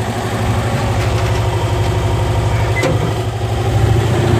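1980 Cushman Truckster's small engine running steadily with an even, rapid low pulse, getting a little louder near the end.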